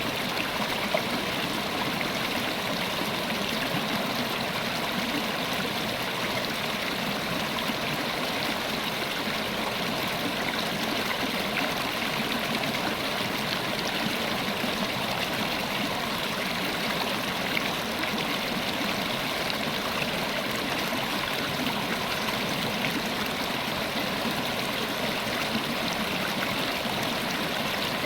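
River water flowing steadily over rocks, a continuous even rush with small splashes and gurgles.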